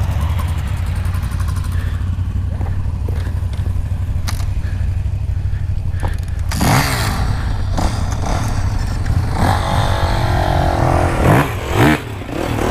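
Motorcycle engines: a steady low rumble throughout, then from about halfway in, motorcycles pulling away and passing close by, their engines revving up and down.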